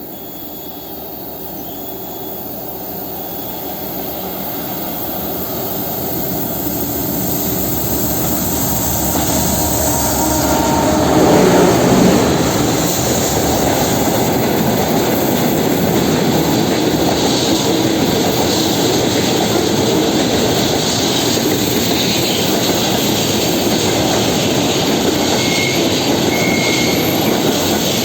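2M62U twin-section diesel locomotive approaching, its engine growing steadily louder and peaking as it passes about 11 seconds in, followed by the steady rumble of the train's wagons rolling past on the rails, with a faint brief wheel squeal near the end.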